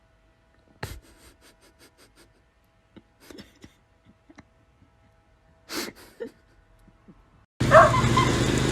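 A few faint clicks and taps, and a short breathy burst about six seconds in. Near the end a louder clip cuts in with steady background noise and a dog's brief high whine that glides up and down.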